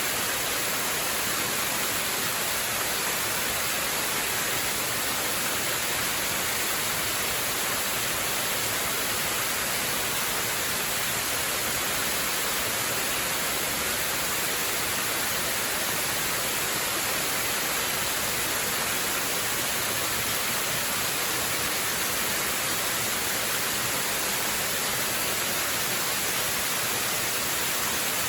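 Waterfall: a steady, even rush of falling water, hissy and bright.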